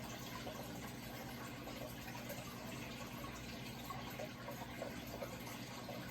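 Steady running water, a continuous splashing trickle like water pouring into a tank, with a faint steady hum underneath.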